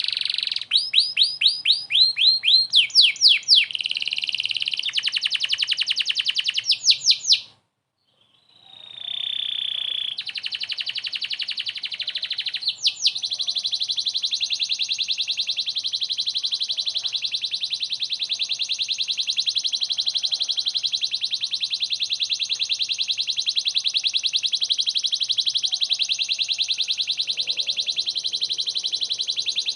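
Domestic canary singing: quick sweeping notes and fast repeated phrases, a brief break about eight seconds in, then a long, very fast rolling trill held on without pause.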